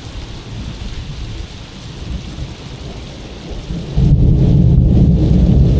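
Thunderstorm at sea: steady rain with rolling thunder, and a much louder rumble of thunder breaking in about four seconds in and rolling on.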